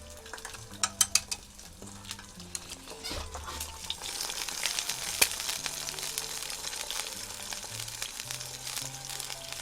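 An egg frying in hot oil in a pan, sizzling, the sizzle growing louder from about four seconds in. Three sharp taps come about a second in.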